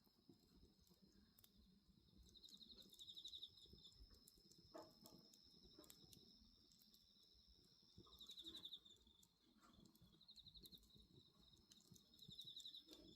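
Crickets trilling at night: a steady high chirring, with a louder rapid pulsed trill four times, every few seconds. Scattered faint crackles from a wood bonfire sound underneath.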